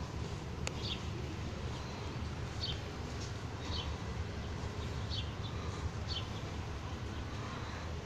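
A small bird chirping outdoors: short high chirps repeating roughly once a second over a steady low rumble, with one sharp click about a second in.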